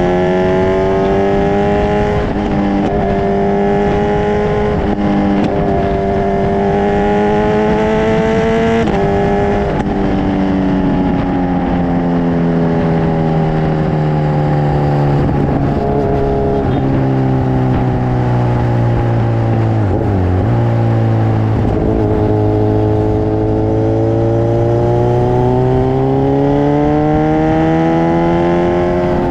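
Kawasaki Ninja 1000SX inline-four engine through an Akrapovic full-system exhaust, running under load with revs rising for several seconds. The revs drop sharply about nine seconds in, fall slowly for the next ten or so seconds, then rise steadily again near the end.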